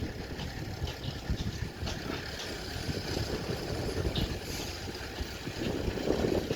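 An engine running steadily, a low noisy drone with a few faint ticks over it.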